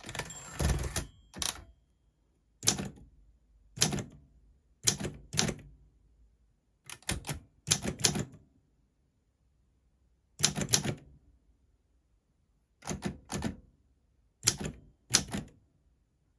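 Olympia SM4 manual portable typewriter being typed on slowly and unevenly, sharp key strikes coming singly or in quick groups of two or three with pauses between. A longer burst of mechanical noise lasting about a second opens the stretch.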